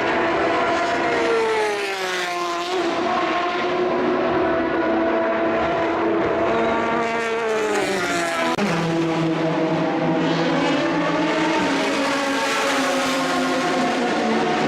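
Endurance race car engines running at speed on a circuit, more than one at once, with the pitch falling sharply twice as cars pass or brake and downshift, then settling into steadier, lower notes.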